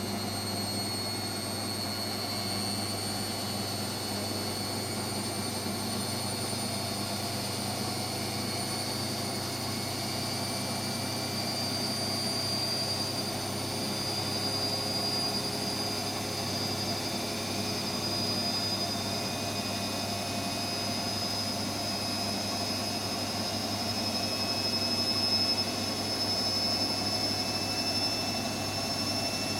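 Hotpoint WMXTF742K washing machine spinning, its motor whine slowly rising in pitch as the drum gathers speed.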